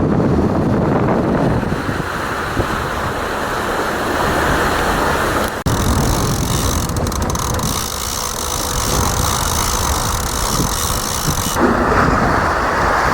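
Wind buffeting the microphone aboard a sailing yacht under way, over a steady rush of wind and sea. The noise changes abruptly about five and a half seconds in and again near the end.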